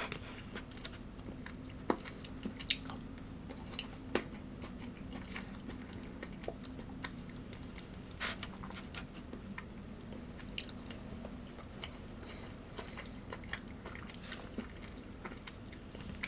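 A person chewing and biting food, with irregular soft crunches and clicks, a sharper one right at the start. A faint steady hum runs underneath.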